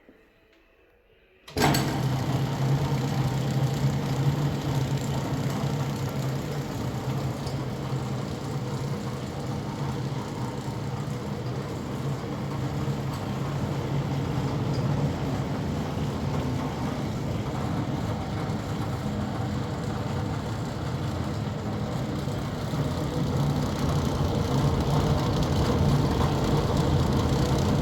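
Maja BXAplus 554 mobile skinning and derinding machine switched on about a second and a half in, then running steadily with a low electric-motor hum and belt and mechanism noise.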